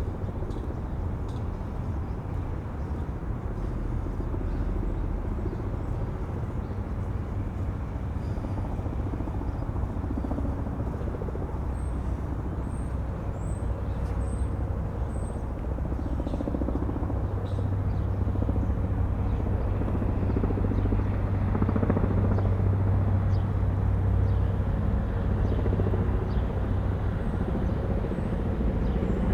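Windy outdoor waterfront ambience: a steady low rumble with a distant engine drone that grows louder about halfway through. A bird chirps a few times, high and short, in the middle.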